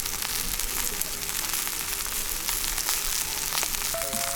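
Steady sizzling with many fine crackles, food cooking over a campfire. A brief, clear, whistle-like tone sounds near the end.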